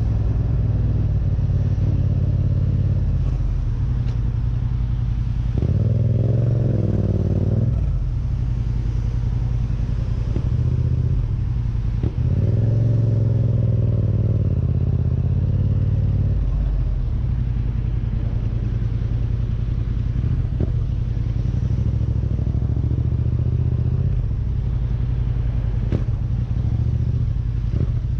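Motorcycle engine running while riding, its pitch climbing twice as the rider accelerates, with a brief dip between the two like a gear change.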